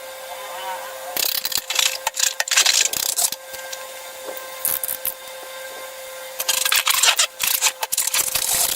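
Hands working slime and rubber balloons, making irregular bursts of crackling, squishing and rubbing noise over a faint steady tone.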